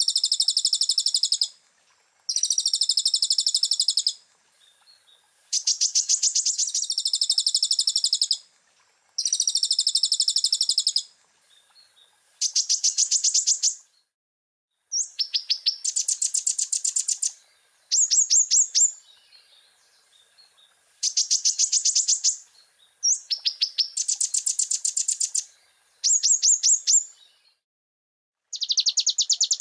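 Konin (kolibri ninja sunbird) singing a fast, high-pitched chattering song in repeated trilled phrases of one to three seconds with short pauses between them.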